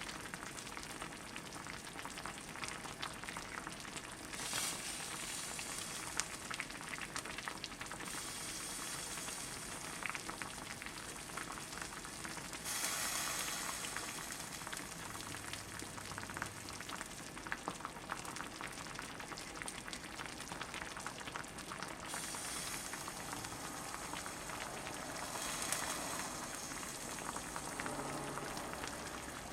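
Stew ingredients sizzling and bubbling in an earthenware ttukbaegi pot: a dense crackle of fine pops that steps louder and softer every few seconds.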